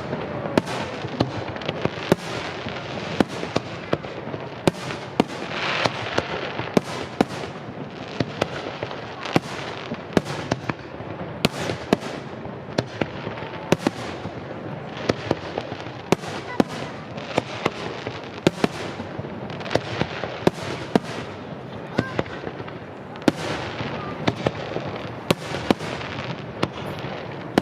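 Aerial fireworks display: shell after shell bursting with sharp bangs, roughly one or two a second at uneven spacing, over a continuous rumble and crackle, with a denser, louder flurry about six seconds in.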